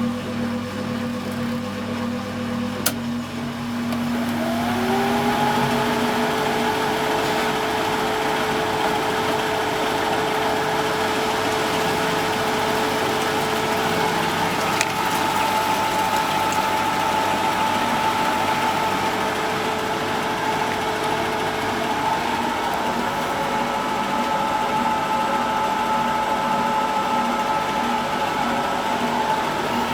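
1974 Zoppas Superautomatic 242 washing machine: a click about three seconds in, then the motor brings the drum up to speed with a rising hum that levels off into a steady spin.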